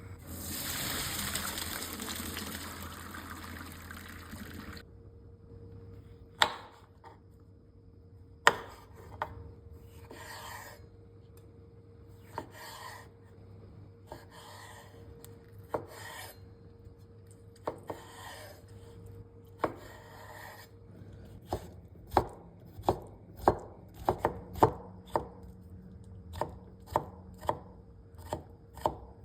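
Knife cutting food on a cutting board: scattered single knocks with softer slicing strokes between them, then a quicker run of chops, about two a second, over the last seven seconds. A steady rushing hiss fills the first five seconds.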